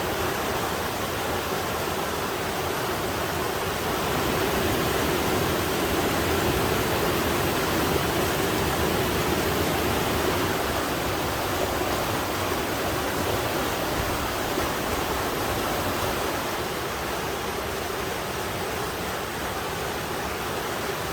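Mountain stream rushing and splashing over rocks in a steady, full sound that swells a little through the middle.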